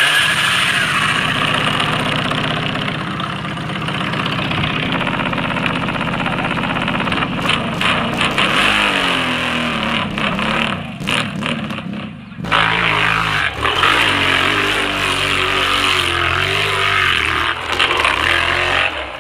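Motorcycle engine running after being started, revving up and down; it falters with several brief cut-outs around ten to twelve seconds in, then keeps running with its pitch rising and falling.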